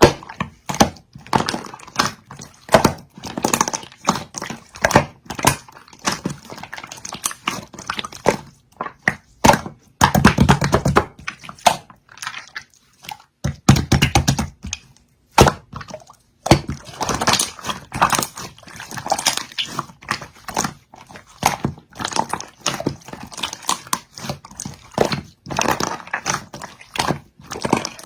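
Dog moving about in a tub of cold water: irregular sloshing and splashing with knocks against the tub, busiest about ten and fourteen seconds in.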